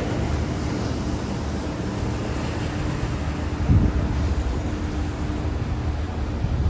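Wind buffeting the microphone over a low outdoor traffic rumble, with a steady hum running underneath. There is a short thump a little under four seconds in.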